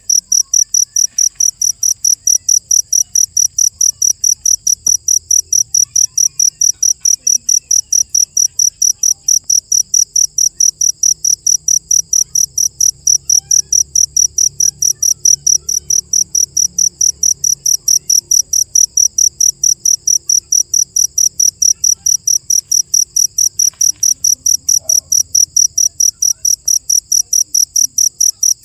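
A cricket chirping steadily and loudly, a sharp high-pitched chirp repeated evenly about three to four times a second.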